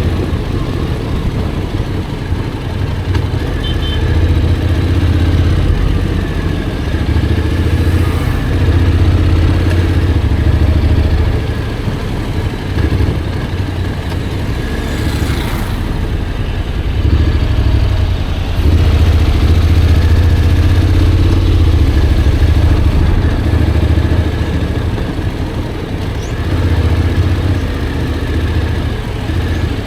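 Honda X-ADV 750's parallel-twin engine running on a ride, its note swelling and easing every few seconds as the throttle opens and closes.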